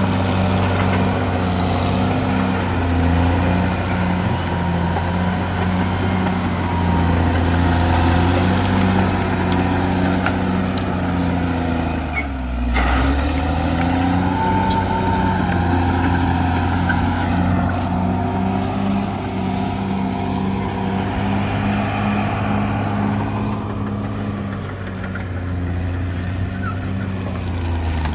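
Diesel engine of a Caterpillar D6R XL bulldozer running loud and steady while working. About twelve seconds in, the engine note sags for a moment and then comes back up.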